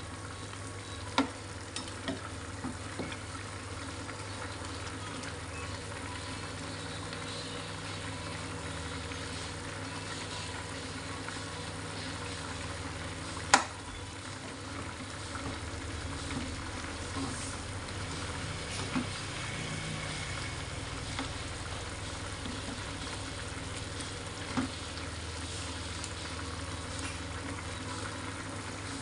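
Chicken feet and giblets sizzling and bubbling in sauce in a nonstick frying pan while a spatula stirs them, with occasional clicks of the spatula on the pan and one sharp knock about halfway through.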